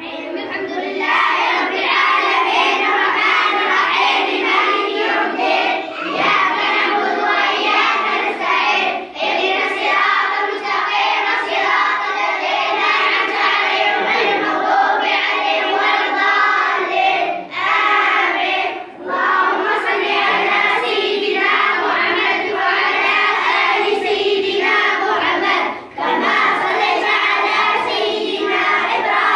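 A group of children's voices chanting together in unison, with a few brief pauses for breath.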